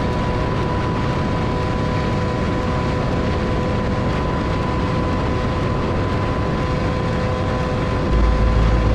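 Sport motorcycle engine running at steady high revs, a held whine over a heavy rushing noise; a deeper rumble comes in near the end.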